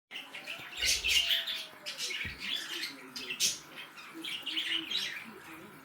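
Budgerigars chirping and chattering in quick, repeated short bursts, with a couple of soft low bumps in the first few seconds.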